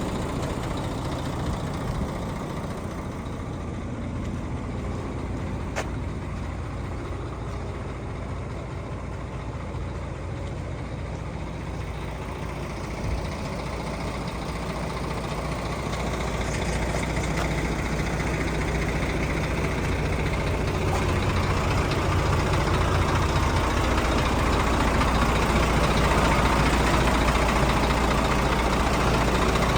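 Scania P114 dump truck's 11-litre six-cylinder diesel engine running steadily, growing louder through the second half.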